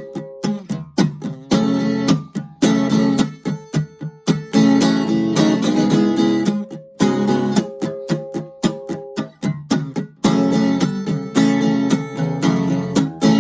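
Kramer Ferrington KFS-2 thin-body acoustic-electric guitar being strummed: chords with sharp strokes that ring between short breaks.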